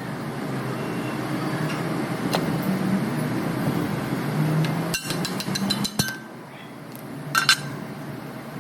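Metal parts and tools clinking and tapping against each other, with a quick run of sharp clicks about five seconds in and two ringing metallic clinks near the end, over a steady low background noise.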